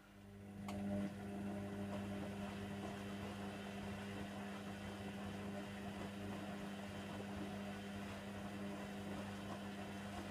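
Hoover Nextra HNWL7146 washer dryer running mid-wash with a bedding load: a steady electric hum over a rushing noise, with a click about a second in.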